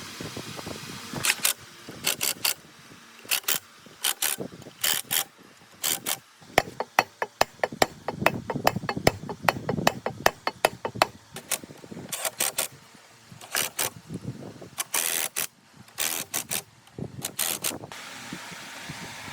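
Metal parts and hand tools knocking and clicking, with a fast run of clicks in the middle, over a faint steady hum.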